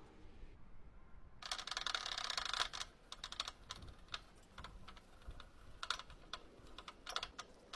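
Hand scrubbing of a surface with a scrubber. About a second and a half in, a dense run of quick scrubbing strokes lasts about a second. Scattered short scrapes and taps follow.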